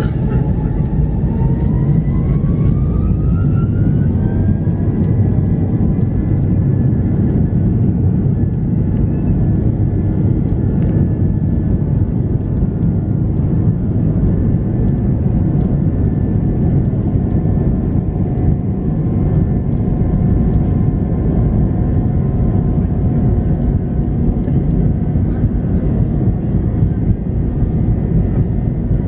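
Airbus A320 jet engines heard from inside the cabin, spooling up to takeoff thrust: a whine rises in pitch over the first few seconds, then holds steady over loud, constant engine and takeoff-roll noise.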